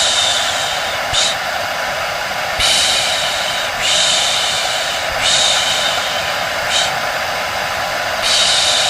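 Rhythmic human shushing, long 'shhh' sounds of about a second each with a few short ones between, over the steady whir of a hair dryer running with a constant hum.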